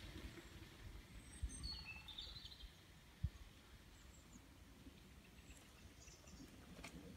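Faint, quiet woodland ambience with a few brief high bird chirps between about one and two and a half seconds in, and a single short low thump a little after three seconds.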